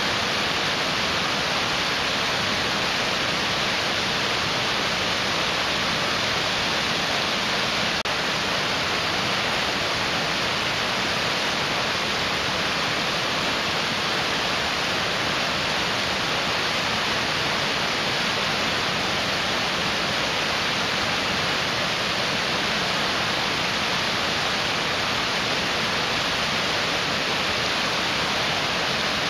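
Mountain stream rushing steadily over rocks, a continuous even rush of water.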